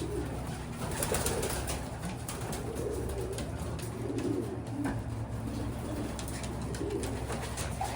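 Pigeons cooing in a loft, several overlapping low coos, with a steady low hum and occasional light clicks.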